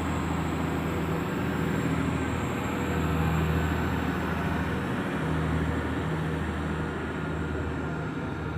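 Class 175 diesel multiple unit pulling away from the platform, its underfloor diesel engines running steadily under power. The sound eases off slightly near the end.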